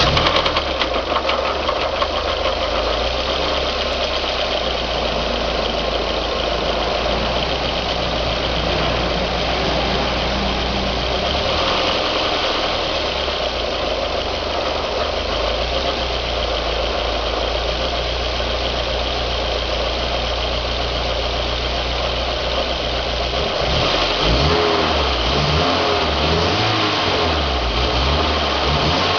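Fiat Tempra 16v four-cylinder engine idling steadily just after starting, then revved up and down several times near the end. The running carries the strange engine noise the owner is trying to identify.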